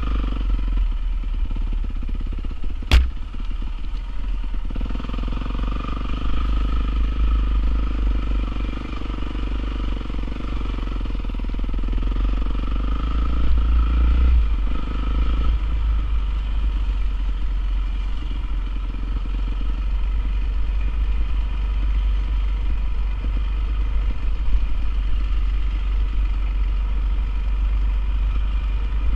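Honda CRF450R's single-cylinder four-stroke engine running steadily, its pitch wavering a little, with one sharp knock about three seconds in.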